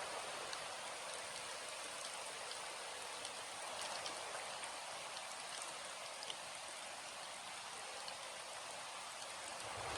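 Steady rain falling, a continuous hiss with scattered individual drop ticks.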